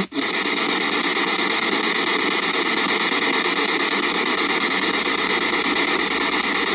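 Spirit box (ghost box) sweeping through radio stations, giving a steady, loud hiss of radio static.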